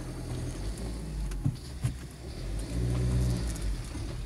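Car engine heard from inside the cabin while driving slowly over a dirt road, running steadily and then swelling louder as it picks up revs about three seconds in. Two short knocks come shortly before the revs rise.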